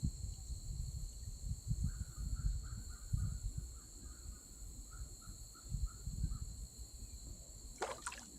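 Outdoor insect chorus of crickets, a steady high two-tone drone throughout, with a run of quick chirps through the middle. Irregular low rumbles run underneath.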